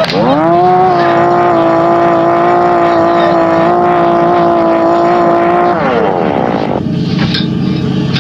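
Chainsaw engine revved up sharply, held at a steady high pitch for about five seconds, then let back down to a low idle drone near the end.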